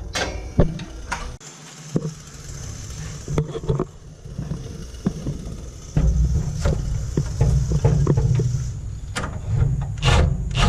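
Impact driver running in short spells to tighten rusty bolts on a charcoal grill's rack supports, with scattered sharp metallic clicks and knocks; it runs longest from about six to nine seconds in.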